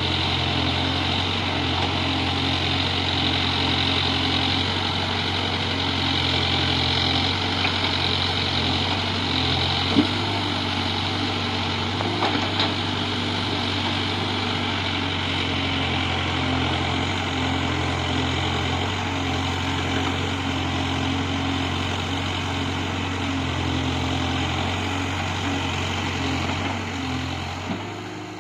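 Heavy diesel engine running steadily at low revs, with a single sharp knock about ten seconds in; the sound fades out near the end.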